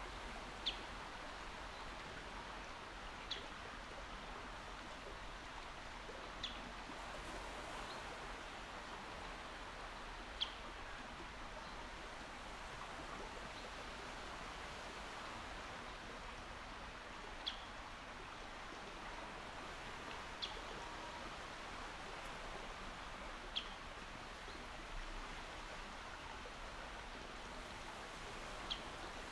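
Steady, gentle wash of calm sea water, with a bird giving a short high chirp every few seconds, about eight times.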